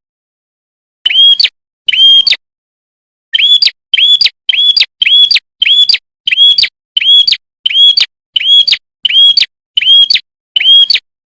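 Prenjak kepala merah, a small prinia, calling in a series of short, identical, arched chirps. Two spaced calls come first, then a fast, even run of about two calls a second.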